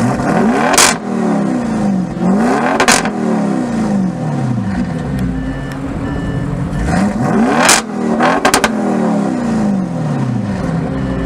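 Tuned Audi RS6 Performance twin-turbo V8 with a titanium Akrapovic exhaust accelerating hard through a tunnel, its pitch rising again and again through the gears. Sharp exhaust cracks come at the gear changes, about a second in, near three seconds, and again around seven and a half to eight and a half seconds. The tunnel echoes the sound.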